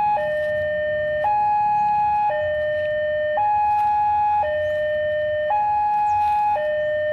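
Electronic two-tone warning alarm, alternating steadily between a high and a low note, each held about a second.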